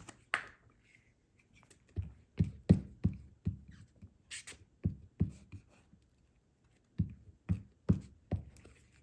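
Card pieces being handled and pressed down on a tabletop while an image is glued to a card front: a series of dull thumps and taps in three short clusters.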